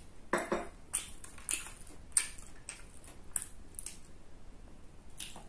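Close-up chewing and mouth sounds of a person eating: a string of short, irregular wet smacks and clicks, roughly one or two a second.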